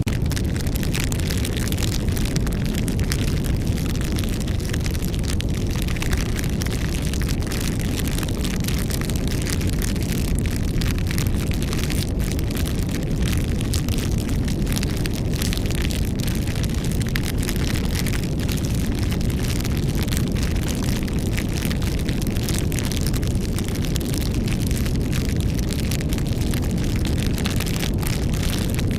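Wood fire burning steadily, with a constant low rush of flame and many small crackles and pops from the burning wood.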